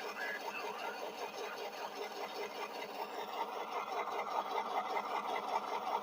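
Model diesel locomotive's sound decoder playing a diesel engine running, heard through the locomotive's small onboard speaker as a fast, even, rattly chug that grows fuller about three seconds in.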